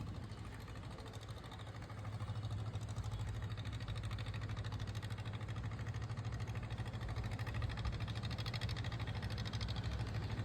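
Boat engine running steadily: a constant low hum with a fast, even pulse.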